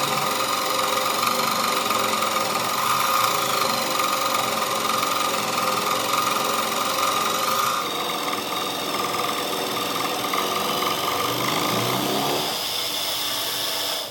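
A machine running steadily, with several held whining tones. The sound changes character about eight seconds in and cuts off suddenly at the end.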